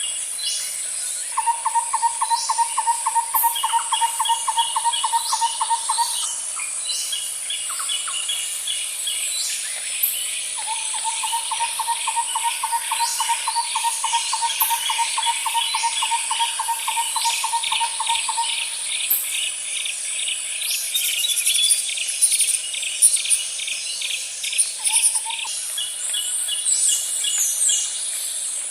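Nature ambience of insects and birds. A steady high-pitched insect whine runs throughout, with fast cricket-like pulsed chirping and scattered short bird chirps over it. A rapid low trill comes in long bouts of several seconds, twice, with a brief one near the end.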